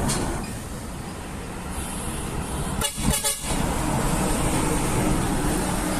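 A toy expedition truck's built-in electronic sound effect: a recorded truck engine running, heard through the toy's small speaker, with a brief break about three seconds in.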